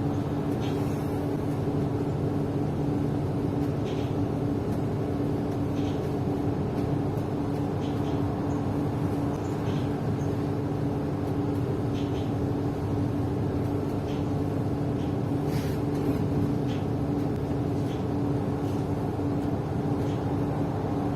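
Steady drone of a city bus under way, heard from inside the cabin: an even engine and running hum with a held tone, and faint occasional clicks or rattles.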